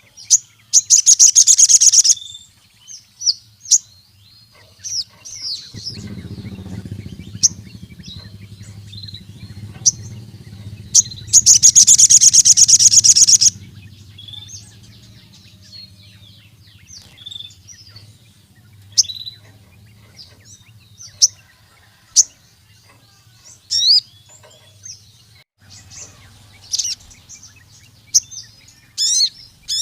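Ruby-cheeked sunbird (sogon) singing: high, sharp chirps scattered throughout, with two long, fast trills, one at the start and another a little before the middle.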